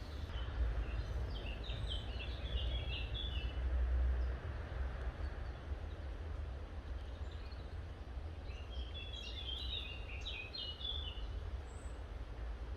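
A songbird sings two quick phrases of short, choppy notes, one right at the start and one about nine seconds in, over a steady low rumble.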